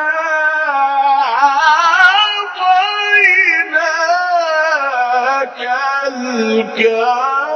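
A male Quran reciter's voice in a long, drawn-out melodic phrase of tajweed recitation, the pitch winding up and down in ornamented turns without a break.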